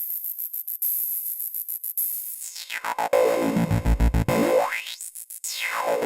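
ADDAC105 4-Voice Cluster eurorack synth voice playing a rapid stream of triggered electronic hits. The bright, resonant tone starts very high, sweeps down to a deep low end about halfway through, climbs back up and starts falling again near the end, as its frequency setting is dialled by hand.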